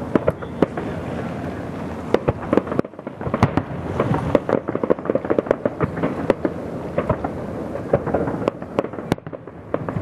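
Fireworks display: a dense run of sharp bangs and crackles, several a second, over a continuous rumble of overlapping bursts.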